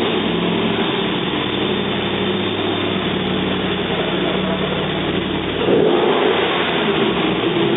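An engine running steadily with a loud rushing noise, getting louder about six seconds in.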